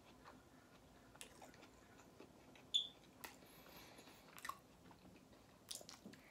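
Close-up mouth sounds of a person biting and chewing a soft grilled chicken taco: quiet wet chewing with a handful of short mouth clicks and smacks, the sharpest a little under three seconds in.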